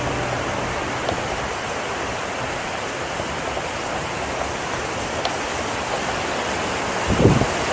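River water rushing steadily, with a few low wind buffets on the microphone near the end.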